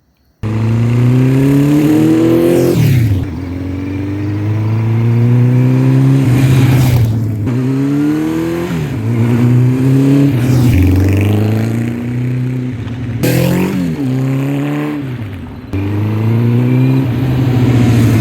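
1984 Honda CB700SC Nighthawk's inline-four engine pulling hard through the gears on the road: the revs climb and fall back at each upshift, about six times. The engine is being run in after a fresh top-end rebuild.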